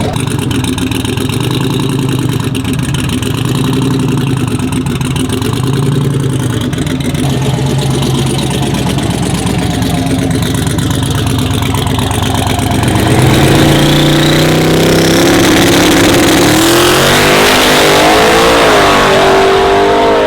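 A twin-turbo pickup truck's engine runs with a pulsing rumble, then about thirteen seconds in it grows louder and climbs in pitch as it accelerates. A thin, high whistle rises over the engine.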